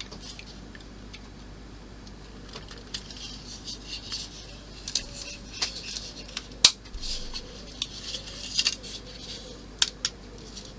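Small plastic model-kit parts handled on a work bench: an irregular run of light clicks, taps and short scrapes, busiest in the second half, with one sharper click about six and a half seconds in.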